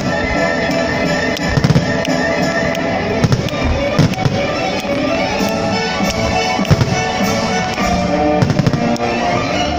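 Fireworks shells bursting in rapid, irregular succession, with music playing underneath. The strongest bangs come about two, four and seven seconds in.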